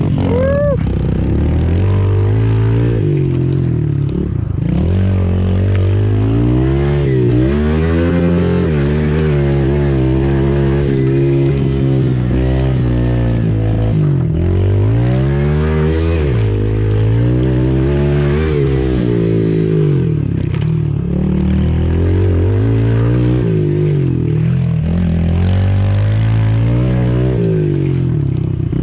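Small four-stroke single-cylinder pit bike engine being ridden hard. Its pitch climbs and drops every couple of seconds as the rider accelerates and backs off for corners.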